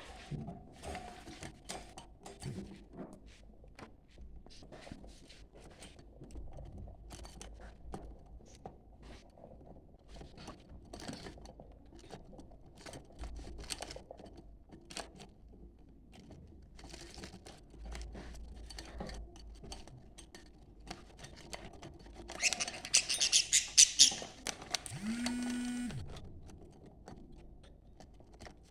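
Budgerigars chattering, with many small clicks and ticks throughout and a louder burst of high, rapid chirping a little over twenty seconds in. A brief low steady tone follows the burst.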